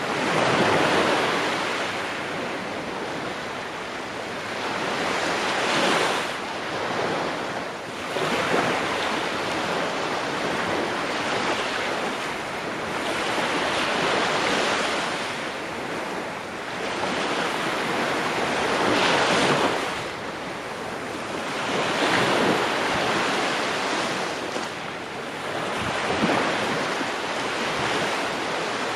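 Ocean waves breaking and washing on the shore in a continuous surf, swelling and easing every few seconds.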